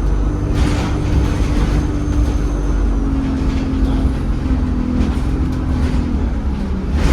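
Inside an ADL Enviro 200 single-deck bus on the move: the engine and drivetrain run steadily, with a thin high turbo whistle that fades out about three seconds in. The engine note slowly falls in pitch and drops near the end. Short noisy bursts come in about half a second in and again at the end.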